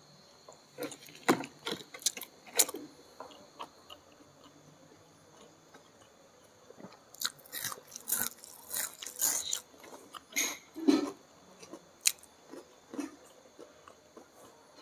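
Close-up mouth sounds of a person chewing a mouthful of rice with chicken liver and gizzard in green chili sambal: irregular wet smacks and clicks, coming in two busy stretches, about a second in and again around the middle.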